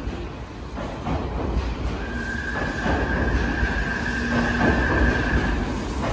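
Odakyu VSE 50000 series Romancecar pulling out along the platform track, its wheels rumbling steadily. From about two seconds in until near the end, a sustained high wheel squeal sounds over the rumble.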